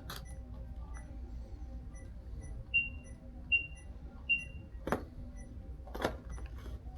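Checkout barcode scanner beeping three times, a short high beep roughly every three-quarters of a second, as items are scanned at the register. Two short knocks follow near the end.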